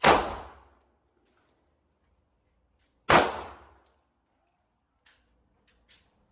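Two gunshots about three seconds apart, each sharp and loud with a ringing tail that dies away over about half a second, followed by a few faint clicks near the end.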